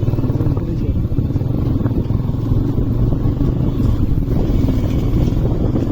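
Motorcycle engine running steadily while riding, a low even drone of engine pulses.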